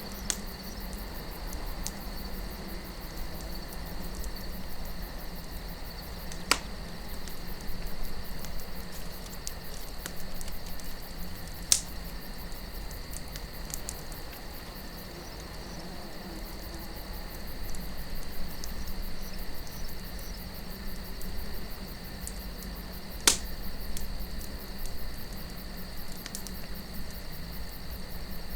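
Campfire crackling with scattered sharp pops, three of them standing out, over a steady high insect trill and a low wind rumble.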